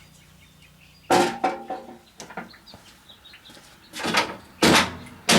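Loud banging on the motorhome's front end as the bumper is forced off: a ringing clank about a second in, then hard blows roughly every two-thirds of a second near the end.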